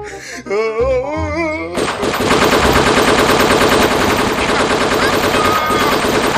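Rapid machine-gun fire sound effect played loud through a loudspeaker, starting about two seconds in as a sustained burst. Before it come voices.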